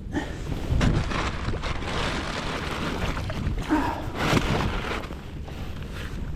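Wind buffeting the microphone, with uneven surges of water splashing as a hooked redfish is fought at the surface beside a kayak.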